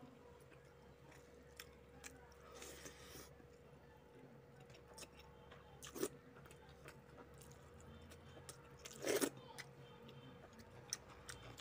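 Close-up eating sounds of a person chewing rice and fish curry eaten by hand: soft wet mouth clicks and smacks throughout. Two sounds stand out, a louder smack about six seconds in as a handful goes into the mouth and a longer one about nine seconds in. A faint steady hum runs underneath.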